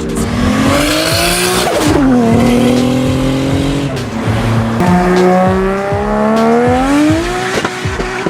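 Toyota Supra MK4 straight-six engine revving hard under full acceleration. Its pitch climbs through each gear and drops back at the upshifts, about two seconds in and again near the end.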